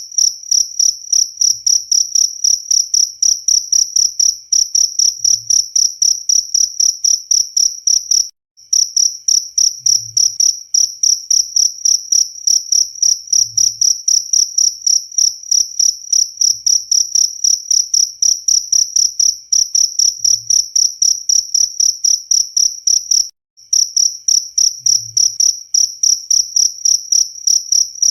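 Cricket chirping steadily: a high, single-pitched trill pulsed about three times a second. It cuts out to silence briefly twice.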